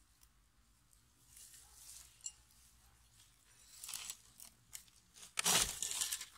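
Close crunching and rustling, with a few short crackles about four seconds in and the loudest crunch about five and a half seconds in.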